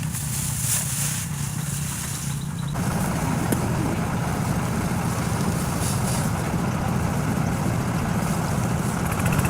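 Engine running steadily, getting louder and fuller about three seconds in.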